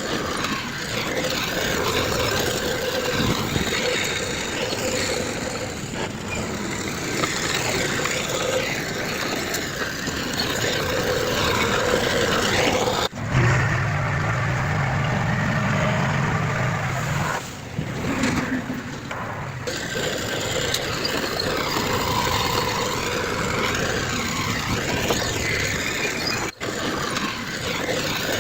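Heavy construction machinery running: diesel engines of earthmoving equipment working steadily. The sound changes abruptly about halfway through, and a deeper engine note comes to the fore for a few seconds.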